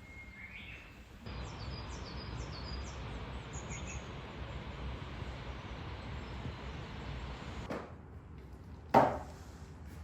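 Steady outdoor background hiss with a run of short, high bird chirps for a couple of seconds early on. After the hiss stops, a single sharp knock sounds near the end.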